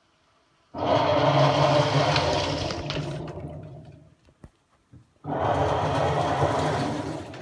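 Hitachi BW-8JV top-loading washing machine working through its wash, two strokes about four and a half seconds apart, each starting suddenly with a motor hum and water churning, then dying away over a couple of seconds. The owner describes the machine as on the verge of breaking.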